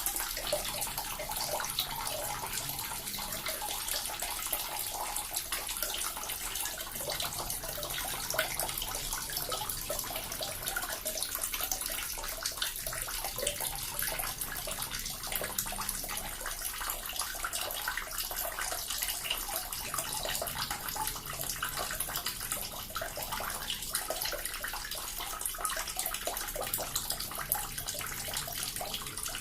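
Small water fountain splashing and trickling steadily, a constant stream of fine splashes without pause.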